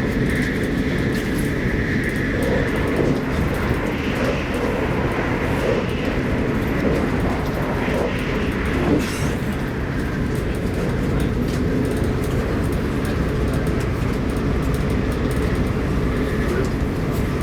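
Arlanda Express electric train running, heard from inside the carriage: a steady, even rumble of the wheels and running gear, with a faint high whine in the first couple of seconds.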